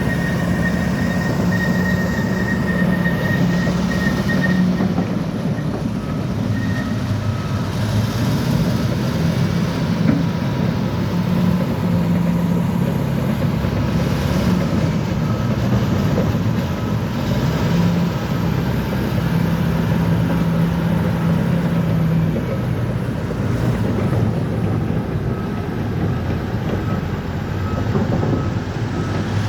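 Crawler bulldozer working: its diesel engine runs steadily under a constant mechanical clatter, with a thin high whine over it for the first few seconds.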